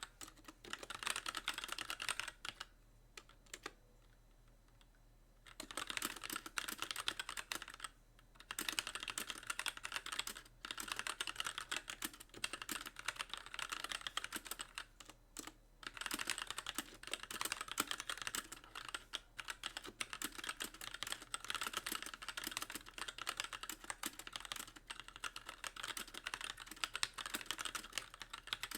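Typing on a Magicforce mechanical keyboard with light linear Gateron Clear switches and stock keycaps, the keys bottoming out in a dense run of clacks. The typing stops for about three seconds a few seconds in, then carries on with a few brief pauses.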